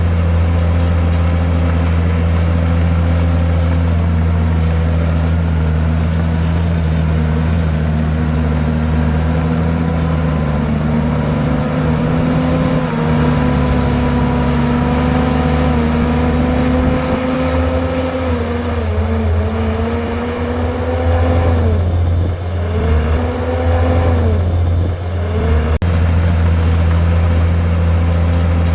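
Komatsu bulldozer's diesel engine running steadily, its pitch sagging and recovering three or four times in the last third.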